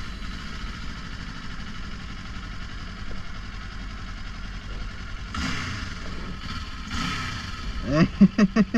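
Kawasaki Ninja 500 parallel-twin motorcycle engine running steadily at idle, heard from a GoPro on the rider, with two brief louder swells about five and seven seconds in. A man's voice comes in near the end.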